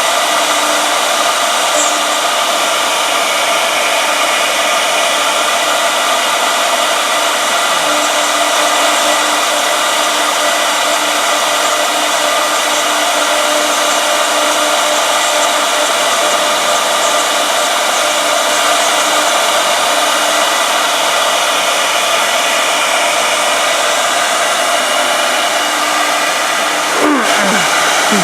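Two-head 1325 CNC router running, its spindles giving a steady whine over a loud rushing noise. Near the end a brief tone falls in pitch.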